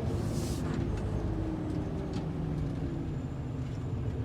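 Semi-truck's diesel engine running steadily while driving, heard from inside the cab, with a short hiss right at the start.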